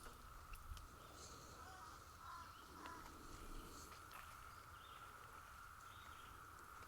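Faint, steady one-pitch drone of a chorus of 17-year periodical cicadas, with a few short, faint bird calls over it.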